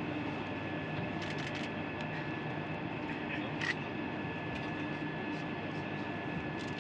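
Steady hum and hiss of an open space-to-ground radio channel from the space station, with a few faint clicks.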